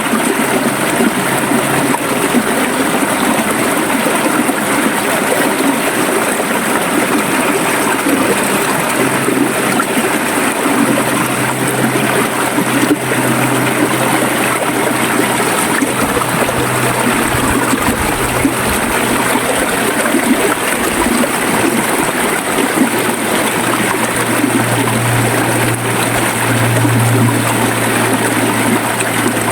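River water flowing steadily, a continuous rushing and gurgling, with a faint low hum running beneath it.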